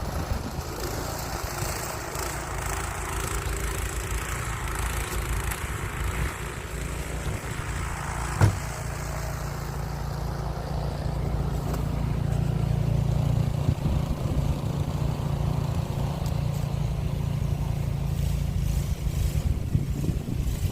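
Gasoline snow blower engine running steadily, a low hum that grows somewhat louder about halfway through, with a single sharp knock a little before halfway.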